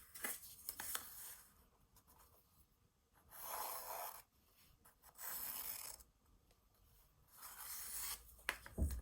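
Drawing strokes scratching across sketchbook paper: three longer rubbing strokes of about a second each, with a few sharp clicks near the start and near the end.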